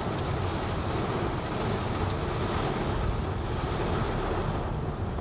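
Steady rushing noise of a thunderstorm's rain and wind, with wind on the microphone.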